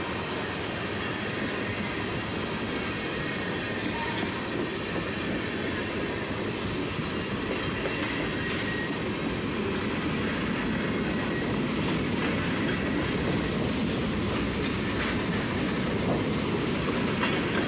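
Freight train rolling past close by: a steady rumble and clatter of steel wheels on the rails as tank cars and then covered hoppers go by. It grows slightly louder toward the end.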